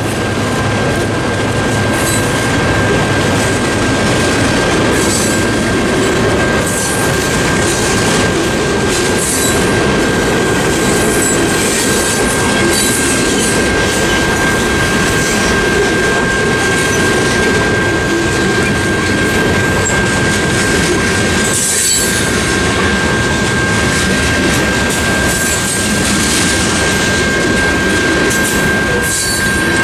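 Boxcars and covered hoppers of a freight train rolling through a grade crossing, with steady wheel-on-rail noise and clicking over the rail joints. Over it the crossing's General Signals Type 1 electronic bell rings as a steady tone.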